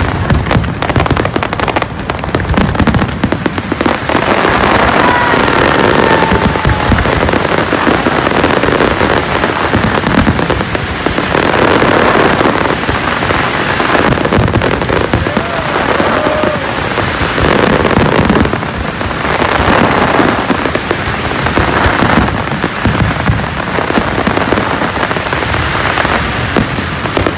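Fireworks display going off, with a dense, continuous run of bangs and crackling that comes in loud waves.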